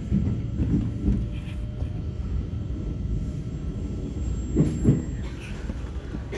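Korail Class 351000 electric multiple unit running on the Suin–Bundang Line: a steady low rumble of wheels on track, with two sharp thumps close together about four and a half seconds in as the wheels pass over a rail joint.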